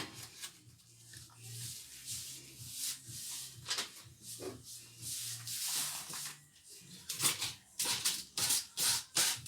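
A spoon scraping and rubbing against a pot while the mixture is stirred, in irregular strokes with a faint steady hum underneath.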